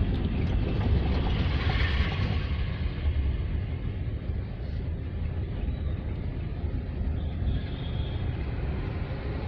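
Car on the move: a steady low rumble of engine and road noise, a little louder for the first few seconds, with a faint high tone briefly near the end.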